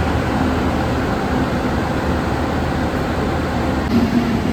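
Steady loud rumble and hum of trains and diesel engines at a busy railway station platform.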